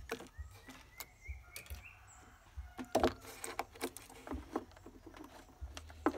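Irregular small clicks and knocks of hands handling plastic parts and wires, the loudest cluster about three seconds in.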